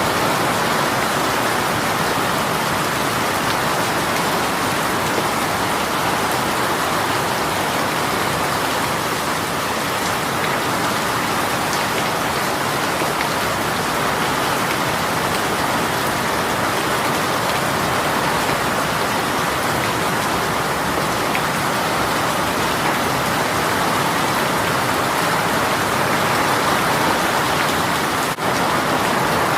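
Heavy rain shower pouring steadily, an even hiss of drops hitting surfaces, with a momentary dip in level near the end.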